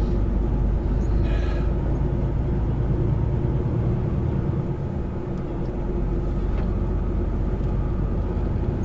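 Steady engine drone and road rumble of a semi-truck driving, heard from inside the cab, with a brief rustle about a second and a half in.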